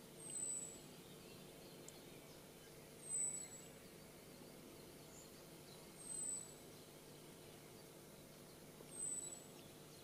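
A small songbird repeating a thin, very high whistle that falls slightly in pitch, four times about three seconds apart, over a faint steady low hum.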